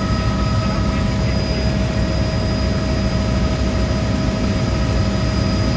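Helicopter running steadily: a loud, even engine and rotor drone with a constant high whine over it.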